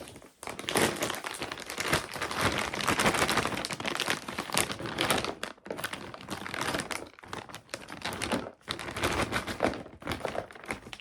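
Plastic dog-treat packet crinkling and crackling as it is handled and opened, with dense clicks throughout and two brief lulls.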